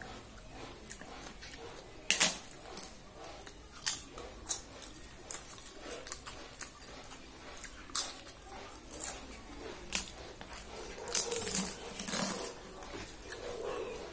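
A person biting and chewing fried papad close to the microphone: sharp crunches, the loudest about two seconds in, then more every second or two, between softer wet chewing sounds.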